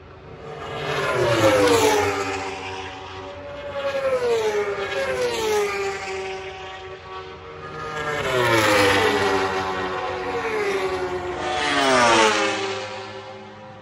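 A motor-driven craft passing by again and again, about four times. Each pass swells up and ends with its engine pitch dropping as it goes by.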